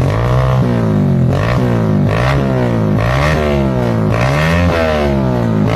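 Motorcycle engine through a Pro Liner aftermarket racing exhaust, its throttle blipped over and over: the pitch climbs and falls about once a second over a steady low idle drone.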